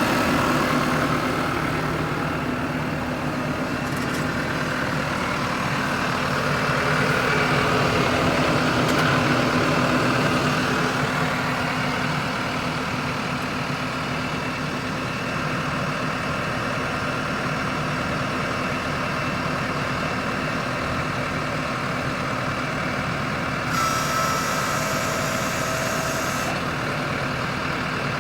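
Case IH 105C tractor's diesel engine idling steadily, getting a little louder for a few seconds early on, with a short hiss near the end.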